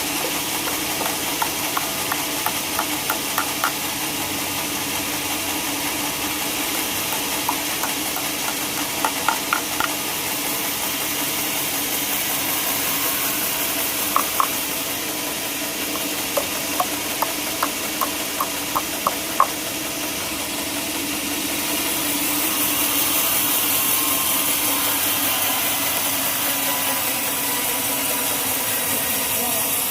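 Sawmill machinery running steadily, with scattered sharp clicks and knocks over the first two-thirds. A louder high hiss builds up near the end.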